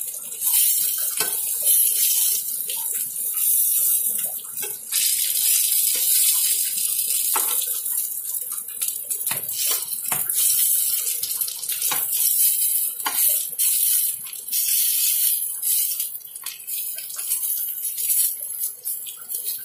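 Batter-coated stuffed snake gourd pieces shallow-frying in hot oil in a pan: a steady high sizzling hiss with scattered pops and crackles.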